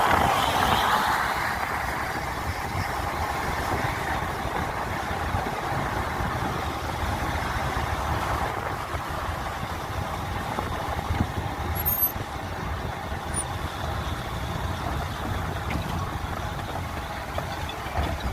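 Steady rumble and hiss of a moving vehicle, with no break.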